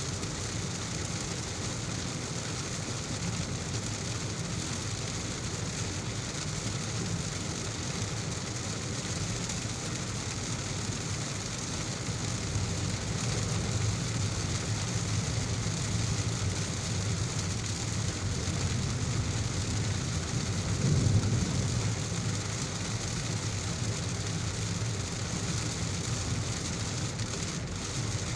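Heavy rain with the steady low rumble of a car driving on a wet road underneath. The rumble swells through the middle and peaks briefly about three-quarters of the way through.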